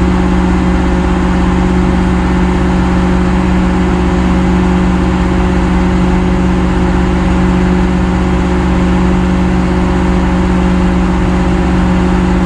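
Engine running steadily at a constant speed, an unchanging drone with a strong low tone.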